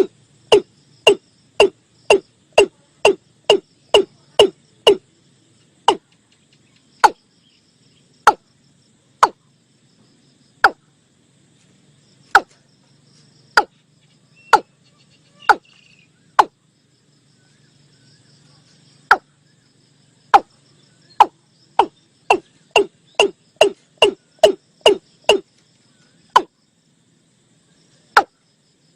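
Watercock calling: a series of short notes, each dropping in pitch. They come about three a second at first, slow to about one a second, then quicken again before a pause and one last note near the end. It is a recorded call played as a lure for trapping the bird.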